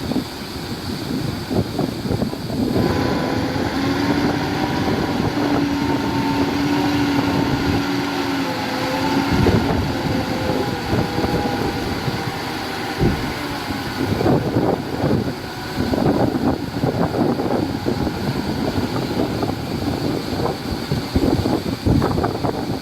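Heavy construction machinery working: an engine runs under load with a steady tone through the first half, among repeated clanks and knocks, with wind on the microphone.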